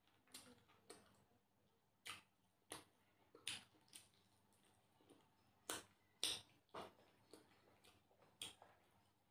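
Faint, irregular mouth clicks and smacks of a person chewing food, about one or two a second, each short and sharp.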